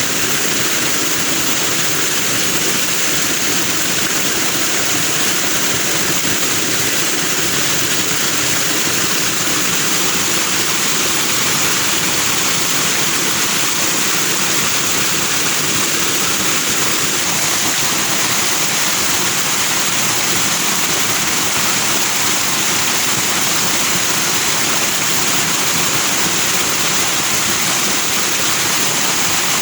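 Foaming stream flowing steadily: an even, unbroken rush of water.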